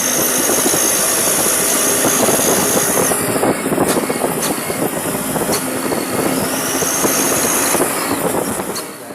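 Toyota Dyna truck engine running through a homemade 'ngir' whistle exhaust, giving a high cricket-like whine over the engine's rattle. The whine rises and holds twice, once at the start and again around two-thirds of the way in.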